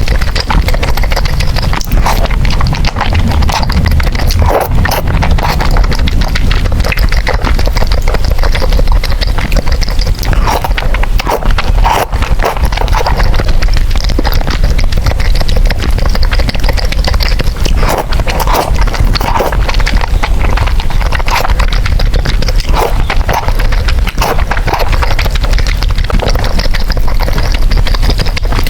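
Close-miked eating of noodles: continuous wet chewing, slurping and lip smacking, full of quick mouth clicks.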